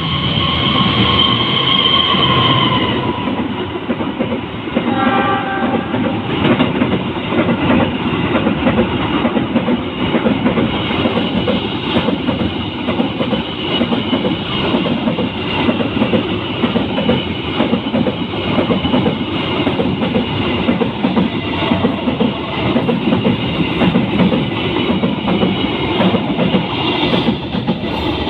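Container freight train sounding its horn for about three seconds, then passing with a steady rumble and clatter of wagon wheels on the rails.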